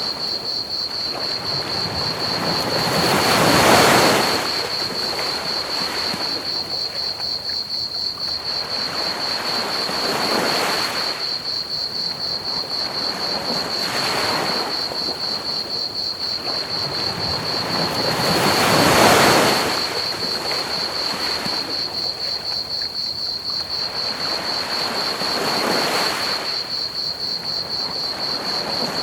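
Ocean waves surging and breaking on a beach in slow swells every several seconds, the biggest about four seconds in and again just past the middle. Crickets trill steadily on one high note over a soft hiss of pink noise.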